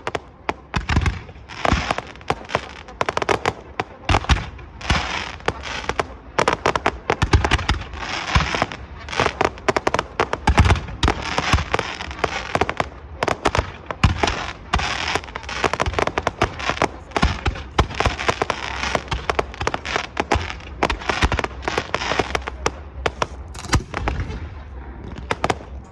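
Fireworks display: a dense, unbroken run of bangs and crackling bursts, many overlapping, with some louder booms among them, thinning slightly near the end.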